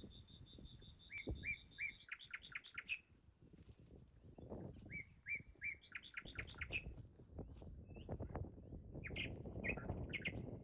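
A songbird singing: a phrase of quick, high, repeated notes ending in a rapid flourish, heard three times, over low rustling noise.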